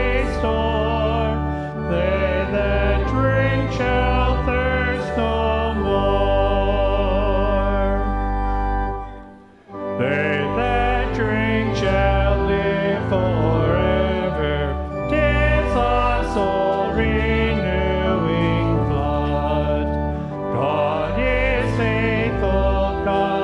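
Organ accompanying voices singing a hymn in slow held phrases, with a short break about nine seconds in before the music resumes.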